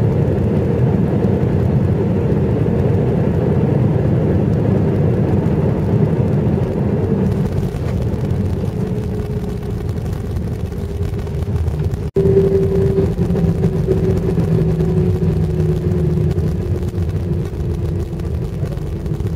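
Airliner cabin noise during the landing roll: a steady rumble of engines and airflow. After a brief break about twelve seconds in, a whine slowly falls in pitch as the aircraft slows.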